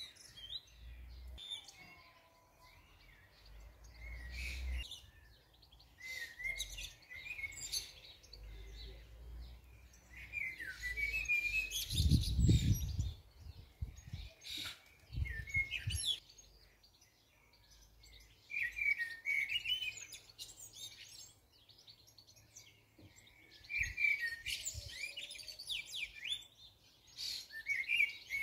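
Small birds chirping in short, repeated phrases of song. A few low rumbles come in between, the loudest about twelve seconds in.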